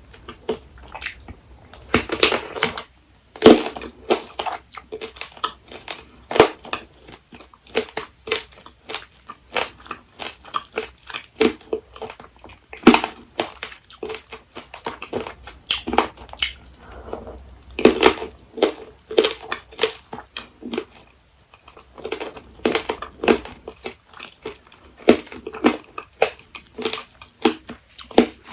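Close-miked crunching and chewing of apricot tanghulu: the hard candied sugar shell cracking between the teeth in quick, repeated crunches, with a few louder bites among them.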